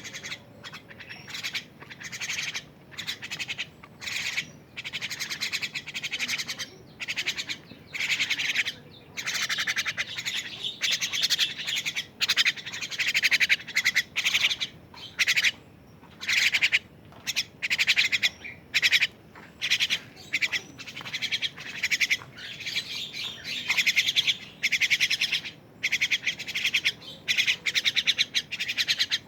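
Twelve-day-old thrush chicks giving harsh, raspy calls over and over, in bursts from a fraction of a second to a second or more, typical of nestlings begging for food.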